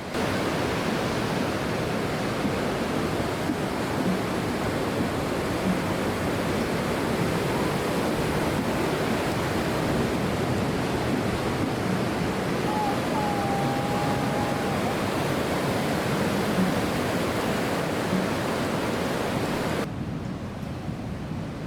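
Sea surf breaking against the shore in a steady, loud wash of noise, dropping to a quieter level near the end.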